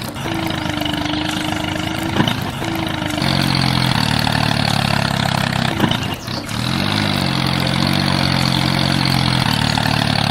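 A motor running steadily, changing pitch about three seconds in and bending up and back down around seven seconds in.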